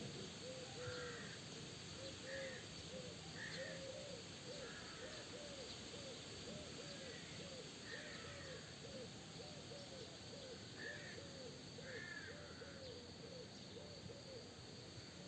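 Birds calling: a steady run of low, arching hoot-like notes, about two a second, with higher calls roughly once a second above them, over a steady soft hiss.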